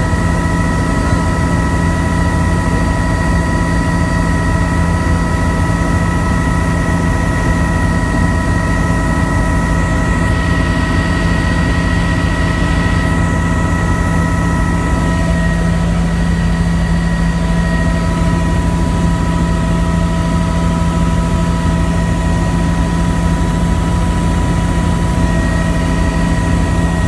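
Helicopter in flight, heard from aboard: a steady low rotor-and-engine drone with a constant high turbine whine over it.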